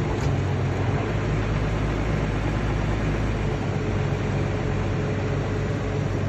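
Heavy diesel earthmoving machinery running steadily under load, a low engine drone under a broad mechanical din.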